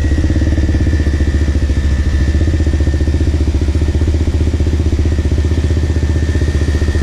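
Off-road motorbike engine running steadily at low speed, an even rapid firing pulse with a faint steady whine above it.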